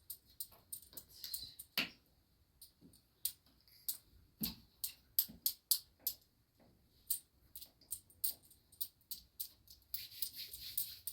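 Scattered sharp clicks and ticks at irregular intervals, with a short hiss near the end.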